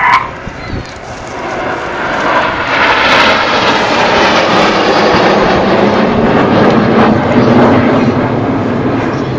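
Red Arrows BAE Hawk jets flying past, their jet noise building over the first few seconds, holding loud, then easing slightly near the end.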